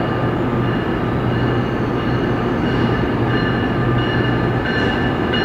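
Amtrak passenger train pulling out of a station platform into a tunnel: a continuous rumble of the cars on the track over a steady low hum, with thin high whining tones that grow stronger in the second half.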